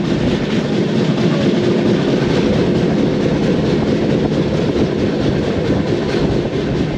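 Running noise of a moving express train heard from inside a general-class passenger coach: a steady, loud rumble and rattle of wheels on the track.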